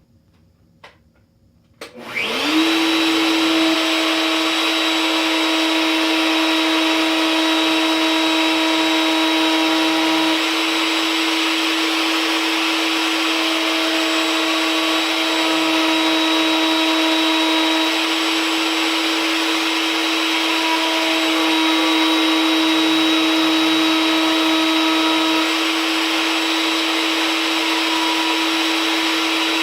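A table-mounted router with a 1/2-inch spiral upcut bit starts about two seconds in, spinning up to a steady loud whine. The tone shifts at intervals every few seconds as the bit flush-trims the wooden guitar neck along the template.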